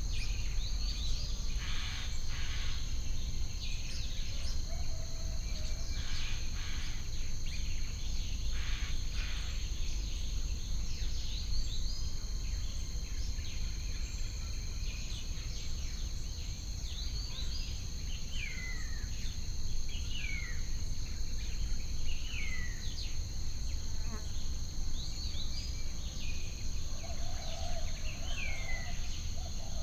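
Nature soundscape: a steady high insect trill with birds giving short, downward-sliding calls, more often in the second half, over a steady low rumble.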